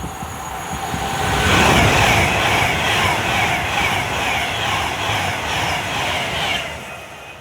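Class 390 Pendolino electric train passing at speed: a rush of wheel and air noise that swells about a second in, holds for some five seconds, then falls away near the end.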